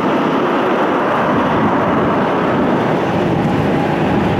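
Steady roar of an arriving Frontier Airbus jetliner's engines.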